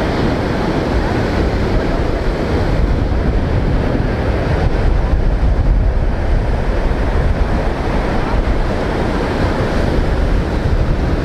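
Strong wind buffeting the microphone as a steady low rumble, over heavy surf breaking on the shore.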